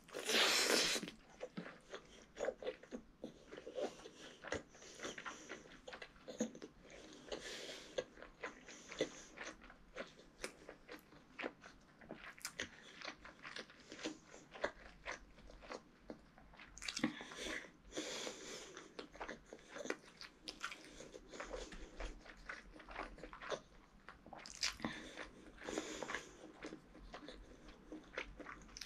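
Close-up eating sounds: a loud bite into a curried chicken drumstick at the start, then wet chewing and mouth smacks of rice and curry, with louder spells of chewing about halfway through and near the end.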